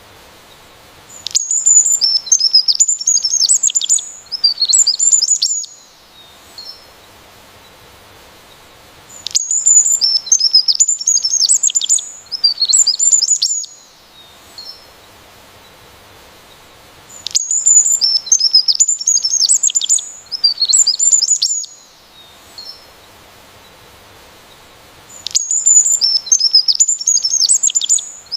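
A songbird singing, four times: each song lasts about four seconds and runs in three quick phrases of high, falling notes, with about four seconds of quiet between songs.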